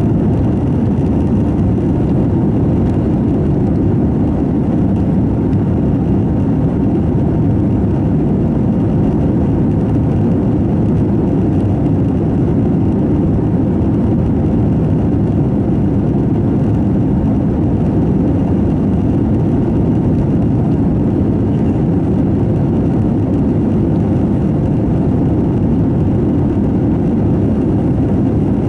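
Steady low roar inside the cabin of an Airbus A321 in flight: engine noise and air rushing past the fuselage, unchanging throughout.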